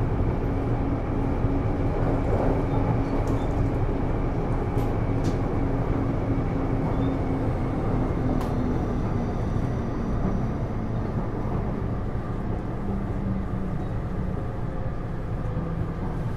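Taipei Metro C301 electric train with Bombardier IGBT-VVVF traction equipment running: a steady rumble of wheels on rail and traction motors, with a motor tone that falls slowly in pitch over the second half.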